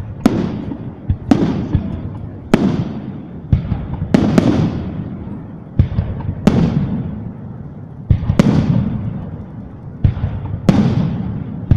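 Fireworks display: aerial shells bursting about once a second, each sharp bang trailing off over a second or so before the next.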